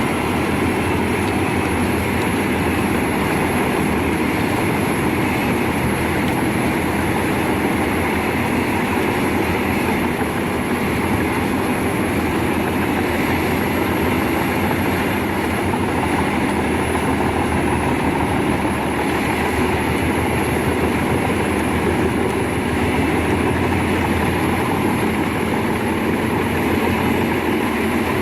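Large industrial wood chipper running steadily: a continuous heavy engine-and-drum drone with a thin high whine above it.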